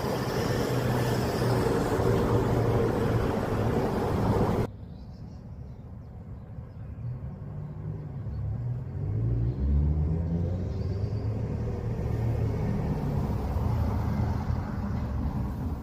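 Passing train, loud and rumbling, until a sudden cut about five seconds in. After the cut, a quieter engine note rises in pitch over a few seconds and then holds steady as a train gets under way.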